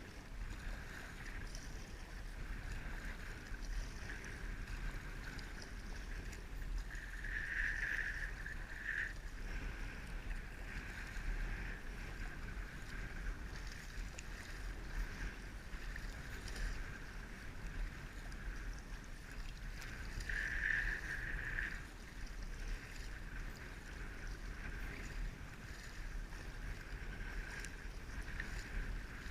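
Water sloshing and splashing around a paddled kayak, with two louder surges of water noise, one about a third of the way in and one about two thirds in. A steady low wind rumble sits on the microphone throughout.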